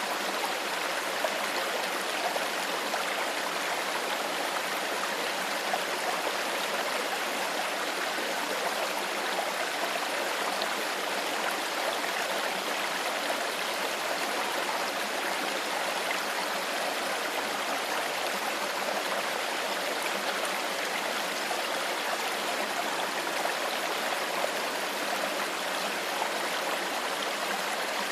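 Shallow stream flowing steadily, an even rush of water with fine babbling and trickling.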